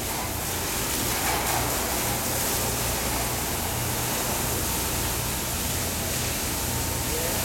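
Fire hose spraying water in a steady rushing hiss, with the low hum of its pump motor running underneath.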